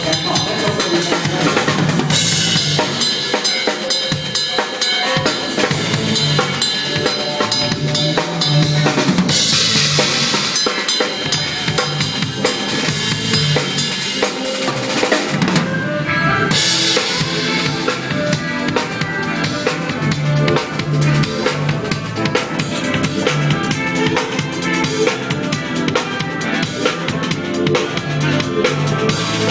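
Drum kit played with steady kick and snare strokes over a recorded band track, with crash cymbal washes about two seconds in, near ten seconds and again near seventeen seconds.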